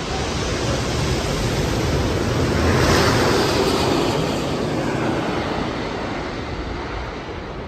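A plane flying low overhead: a loud rushing rumble that swells to its loudest about three seconds in, with a whine that falls in pitch as it passes, then fades away.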